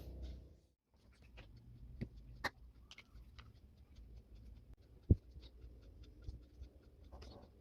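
Quiet handling noises: scattered small clicks and taps, with one sharper knock about five seconds in.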